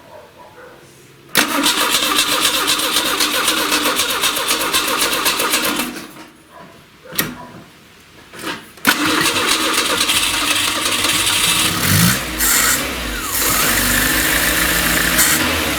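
VAZ-2109 four-cylinder carburettor engine being started on choke: the starter cranks it for about four seconds from a second and a half in, stops, then cranks again at about nine seconds, and the engine catches and keeps running, with a brief rise in revs near twelve seconds. This is its first start after a valve stem seal replacement and valve adjustment.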